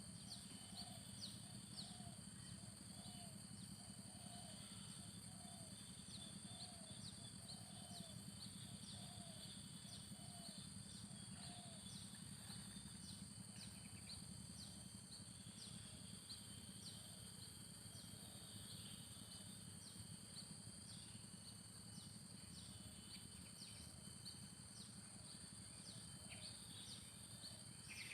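Faint rural ambience: insects shrill steadily, with a fast ticking running through it. Over the first half a bird repeats a low note about once a second, then stops.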